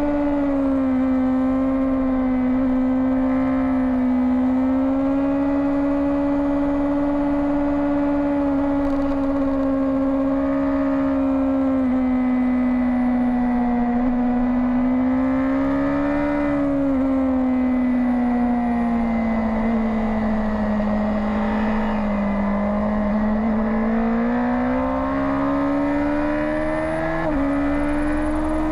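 Two-seater racing superbike's engine heard on board at speed, its pitch rising and falling slowly through the lap. The pitch drops suddenly at a gear change a little past halfway and jumps up again near the end, over a steady rush of wind.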